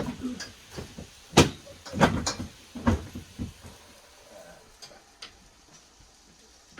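A few sharp knocks and clunks of hard objects being handled. The loudest comes about a second and a half in, a cluster follows over the next second and a half, and a few faint ticks come after.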